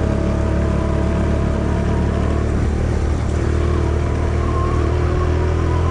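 Small 125cc single-cylinder motorcycle engine running steadily under way at a fairly constant speed, over a heavy low rumble.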